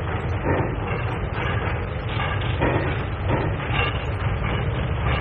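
Steam locomotive and roundhouse noise on an early, narrow-band film soundtrack: a steady hiss and rumble with a recurring beat of heavier pulses roughly every half second to second.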